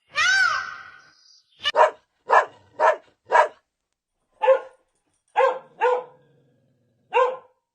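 A dog barking in a series of short, separate barks, about nine, some in quick pairs. A single high call that rises and falls in pitch comes just before them.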